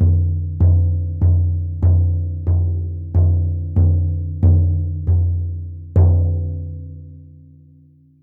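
Frame drum beaten in a slow, steady rhythm, a little under two strokes a second, each stroke a deep ringing tone. A final, harder stroke about six seconds in is left to ring out and fade away.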